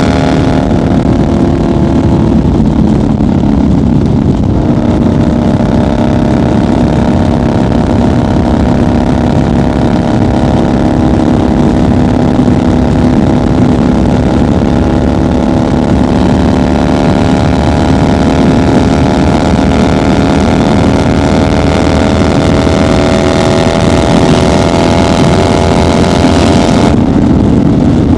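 1990 Harley-Davidson FXR's Evolution V-twin running at highway cruising speed, its pitch climbing slowly for most of the time, then dropping abruptly near the end.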